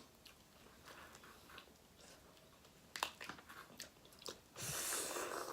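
Close-miked eating sounds of snow crab and shrimp: quiet chewing, a run of sharp clicks and crunches about three seconds in, and a louder noisy stretch near the end.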